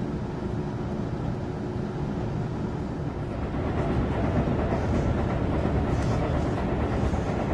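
Running noise of a Tobu limited express train heard from inside the carriage as it leaves a station: a steady rumble from the wheels and running gear, growing louder about four seconds in as the train picks up speed.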